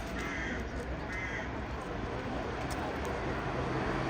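Steady rumble of a YuMZ T-2 trolleybus, growing slowly louder toward the end. Near the start, two short harsh calls come about a second apart.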